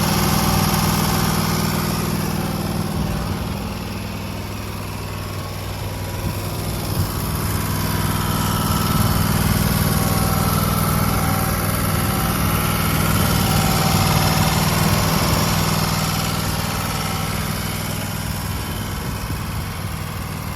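Kawasaki V-twin gasoline engine of a Wright Stander X stand-on mower running steadily, growing fainter and louder again a couple of times.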